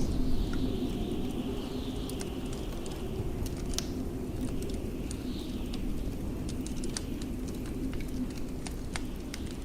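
Blizzard wind howling with a faint whistle that rises and falls, over a steady low rumble, mixed with a wood fire crackling in short sharp pops.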